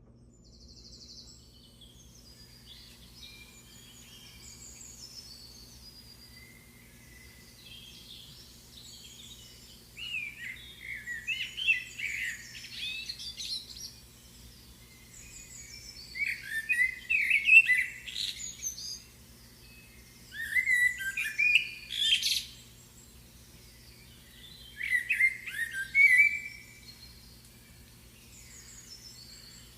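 A songbird singing in bouts of quick, varied chirps and trills. Fainter calls come during the first ten seconds, then four loud phrases of a few seconds each follow in the second half.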